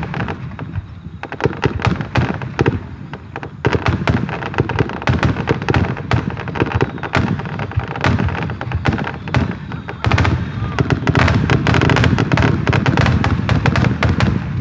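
Aerial firework shells bursting in quick succession: a stream of bangs and crackles that thickens into a near-continuous barrage from about ten seconds in.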